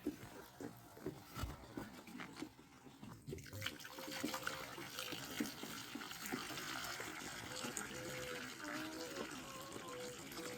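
Water being poured into the chickens' drinker, a steady trickle that starts a few seconds in, after some light knocks.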